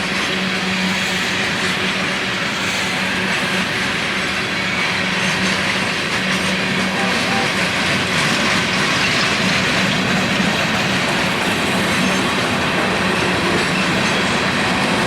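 Union Pacific freight train rolling past: steady wheel-on-rail noise from the passing cars, with a constant low hum.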